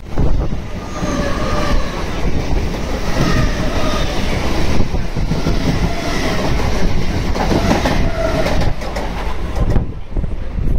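Mumbai suburban local electric train passing close by at speed: a loud, steady rumble and clatter of wheels on rails, with shifting whining tones above it.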